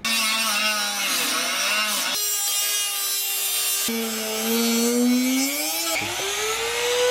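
Power tool with a cutting disc cutting a slit. Its whine dips and climbs in pitch as the disc bites and eases, over a steady grinding hiss, with a short change near 2 s and again about 6 s in.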